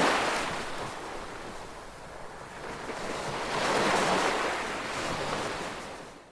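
Ocean surf washing ashore in slow swells: one wave breaking and hissing back at the start, a second surging in about four seconds in. The sound fades out sharply at the very end.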